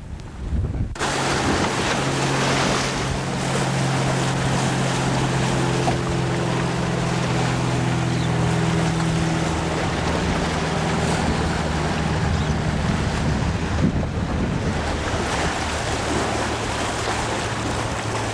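Wind buffeting the microphone and water rushing past a small sailboat under sail, a loud steady rush that comes in suddenly about a second in. A low steady hum sounds underneath through the middle.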